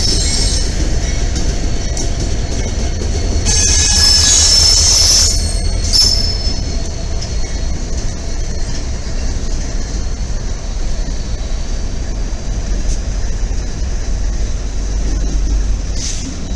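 A lashup of BNSF, Norfolk Southern and Kansas City Southern diesel locomotives passing close by, with a steady low engine rumble. High wheel squeal rides over it, loudest for about a second and a half starting roughly four seconds in, and briefly again near the end.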